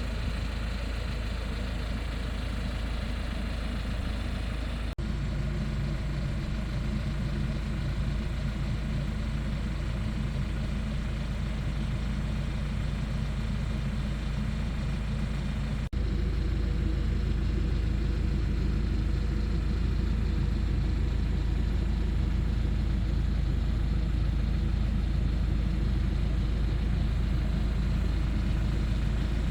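Hyundai Porter II light truck's engine idling steadily. The sound changes abruptly twice, about five seconds in and about sixteen seconds in, and is a little louder after the second change.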